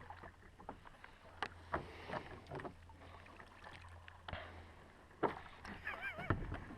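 Plastic kayak being paddled: a scattered series of sharp knocks and light splashes from the paddle and hull over a soft wash of water. The loudest knock comes about five seconds in.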